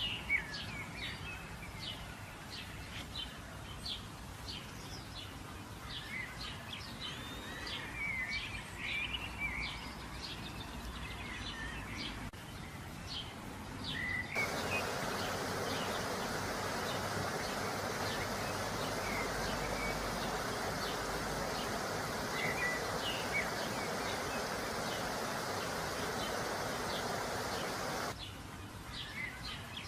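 Birds chirping in many short, quick calls over a steady background hiss. About halfway through, a louder, even hiss comes in, holds for about fourteen seconds, and drops away near the end.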